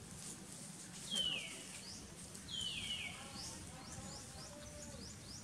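Bird calls: two loud whistled calls, each sliding down in pitch, about one and two and a half seconds in, followed by a quick run of short rising chirps.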